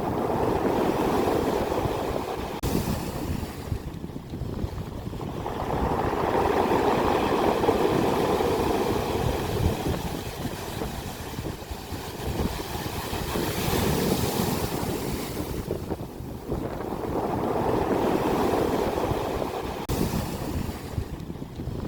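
Ocean waves breaking on the shore, the rush of surf swelling and falling back every few seconds.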